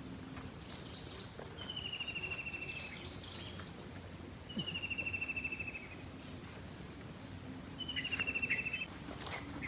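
Insects calling: a steady high-pitched whine, joined every two to three seconds by a pulsed, chirping trill about a second long.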